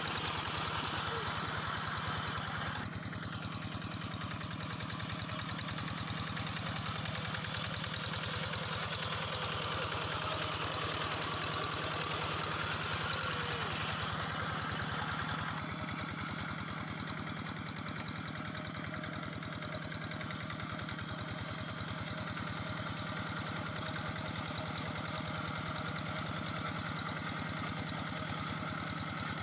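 Engine of a Quick G3000 two-wheel rice-field tractor running steadily with an even pulse. The sound shifts slightly about three seconds in and again about halfway.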